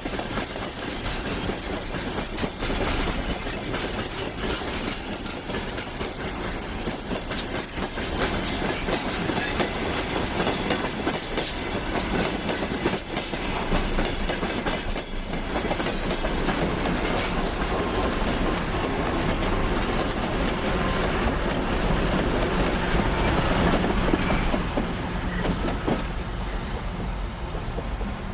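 Train running along the rails: steady wheel-and-rail noise with repeated clicking of the wheels over rail joints, and one sharper knock about halfway through.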